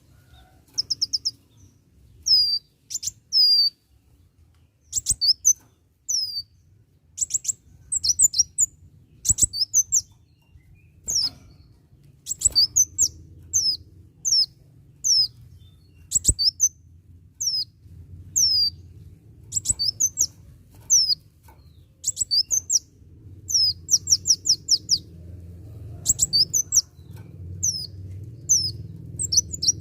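A kolibri wulung sunbird singing vigorously: bursts of high, thin, downslurred notes about once a second, some in quick runs, with a few sharp clicks. A low background hum grows louder near the end.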